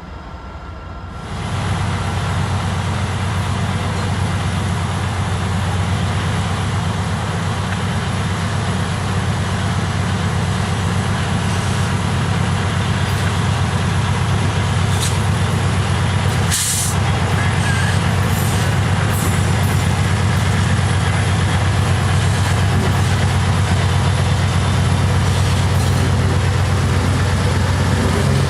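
Freight train rolling past close by: a steady, loud rumble of diesel locomotives and rail cars with a low engine hum, starting suddenly about a second in.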